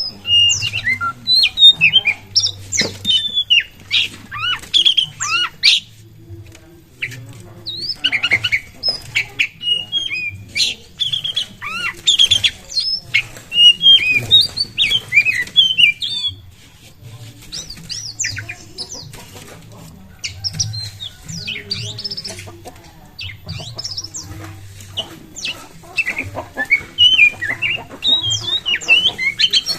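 Oriental magpie-robin (kacer) singing a varied song of quick whistled notes and chattering phrases. The song comes in bursts broken by short pauses.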